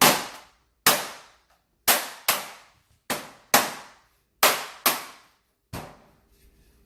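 Sharp knocks struck on a Hisense 56-inch LED flat-screen TV with a hand-held tool: nine blows at an uneven pace, about one every 0.7 s, each ringing briefly. This is a fix attempt for a screen that has gone half black.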